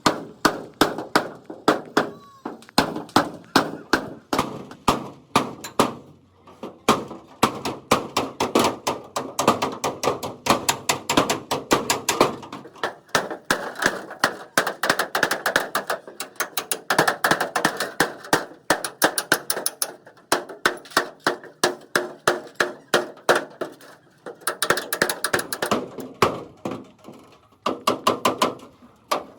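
Hammer beating sheet-steel panel work, rapid blows several times a second, each with a short metallic ring, with a few brief pauses.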